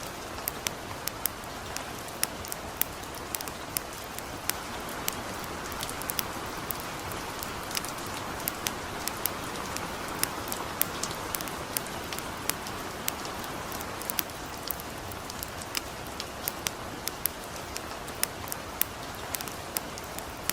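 Light rain falling steadily, with a campfire crackling over it in sharp, irregular pops, several a second.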